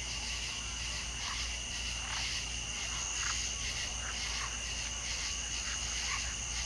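Night chorus of insects trilling steadily, with short frog calls repeating about once a second.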